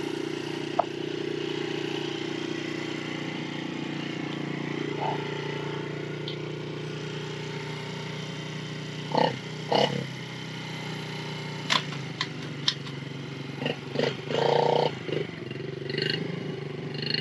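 A motorbike engine running steadily, easing slightly over the first several seconds. From about nine seconds in, a few short knocks and brief sounds break in over it.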